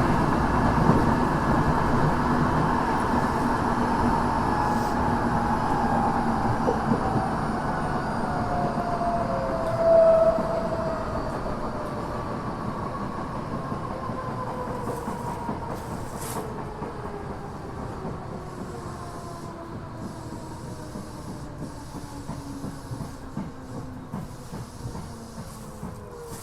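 Tokyo Metro 6000 series electric train's Mitsubishi IGBT-VVVF inverter and traction motors whining as the train decelerates into a station, several tones sliding steadily down in pitch while the wheels rattle over the rails. A short squeal comes about ten seconds in, and the sound grows quieter as the train slows.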